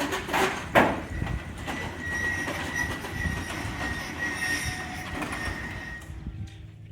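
Low engine rumble of a 1950 Chevrolet COE 5400 truck setting off. A couple of loud clunks come about half a second in, then a steady high-pitched metallic squeal lasts about four seconds and cuts off suddenly.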